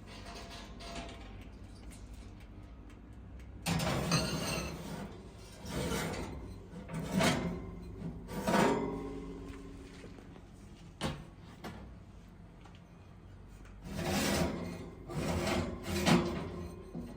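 Kitchen handling sounds: a series of short scrapes, rubs and knocks, loudest about four, six to nine, and fourteen to seventeen seconds in.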